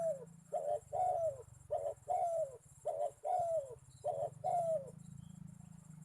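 Spotted dove (tekukur) cooing: a short note followed by a longer falling note, repeated about once a second, stopping near five seconds in.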